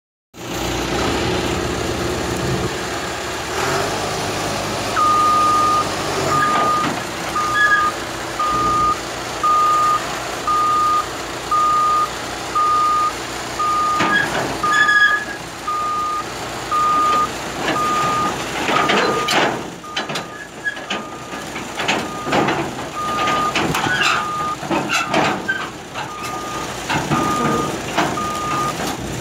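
Bulldozer backup alarm beeping about once a second while its diesel engine runs as it reverses off the transport trailer, with scattered metal clanks and knocks in the second half.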